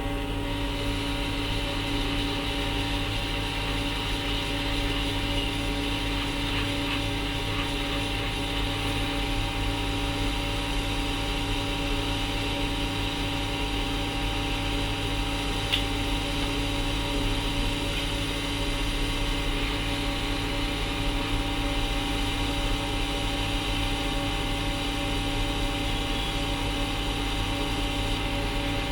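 Steady whir of a small electric fan or blower motor, with a constant hum under it.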